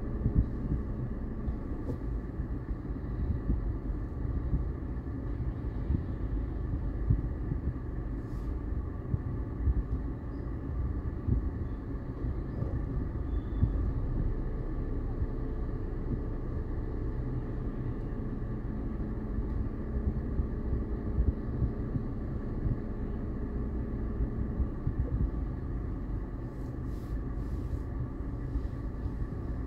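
Car engine idling, heard from inside the cabin as a steady low rumble while the car stands still.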